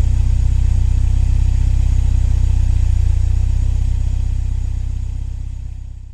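BMW E30 M3's S14 four-cylinder engine idling steadily, fading away over the last two seconds.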